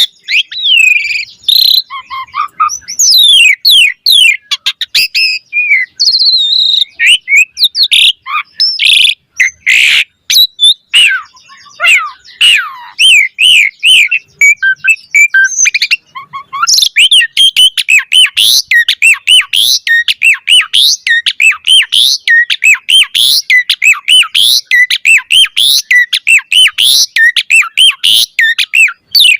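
Asian pied starling singing a fast, varied song of whistled notes, chatter and sharp clicks, almost without pause. The phrases grow quicker and denser about halfway through.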